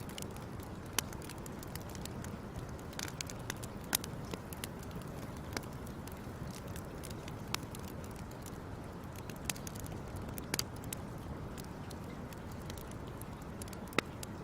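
Wood fire crackling: a steady low rumble of burning with irregular sharp pops and snaps, a few louder ones standing out.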